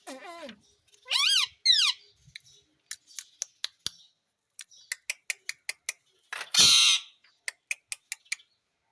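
Pet talking parrot vocalising: a falling call, then two loud warbling whistled calls, several runs of rapid sharp clicks, and one harsh squawk about two thirds of the way in.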